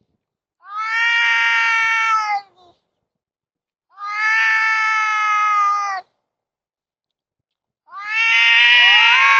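Cats yowling in a fight standoff: three long, drawn-out wails, the last with two voices wailing over each other near the end.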